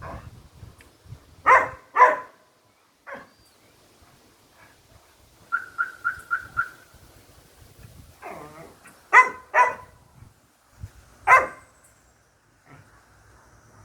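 An animal barking: short, sharp barks, mostly in pairs, with a quick run of five high chirps near the middle.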